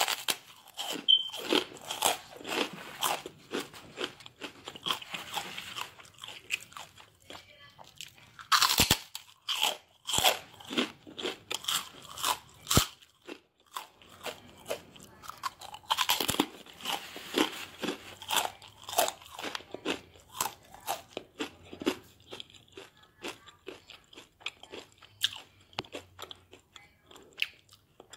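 A person biting into and chewing a crunchy snack chip close to the microphone: loud crunching bites at the start, about nine seconds in and about sixteen seconds in, with rapid chewing crunches between them that thin out near the end.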